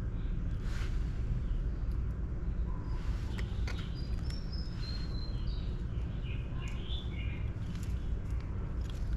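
Small birds chirping in short high notes, mostly in the middle of the stretch, over a steady low background rumble, with scattered brief clicks.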